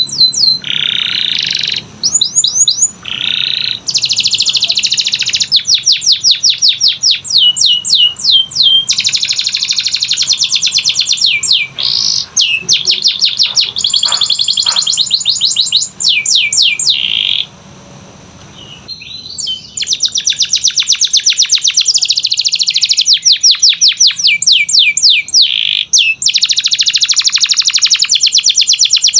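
Canary singing, long phrases of fast trills and rolls made of rapidly repeated high notes, with a short pause a little past halfway before the song resumes.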